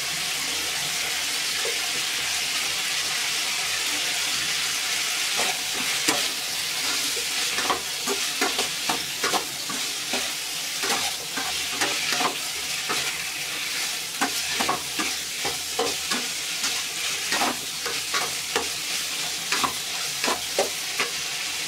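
Pork intestine, potato and tomato sizzling in a frying pan while a slotted spatula stirs them, a steady hiss of frying. From about six seconds in the spatula clicks and scrapes against the pan several times a second, irregularly.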